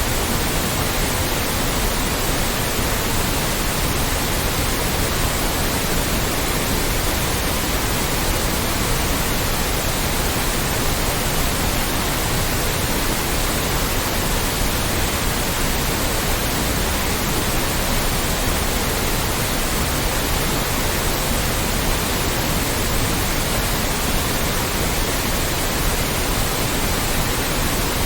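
Loud, steady white noise: an even hiss across all pitches, unchanging throughout.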